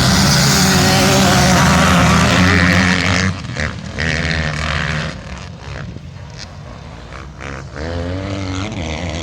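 Two-stroke motocross bike engine revving hard for about three seconds, then dropping to a quieter, uneven running, and climbing in pitch again near the end as it revs back up.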